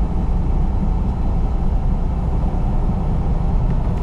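Steady low engine and road rumble inside a semi-truck's cab while driving on the highway.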